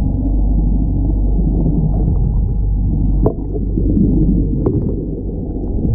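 Loud, muffled low rumble with nearly nothing heard above it. A sharp click about three seconds in, where the level briefly dips, and another click a little later.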